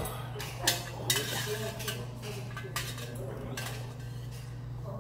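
Utensils clinking against a noodle bowl during a meal, about five separate sharp clinks, over a steady low hum of the room.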